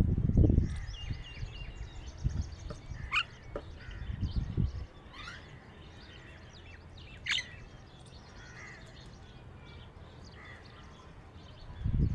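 Wild birds calling outdoors: a few sharp, sweeping chirps about three, five and seven seconds in, with smaller chirps between. A low rumble in the first second is the loudest sound.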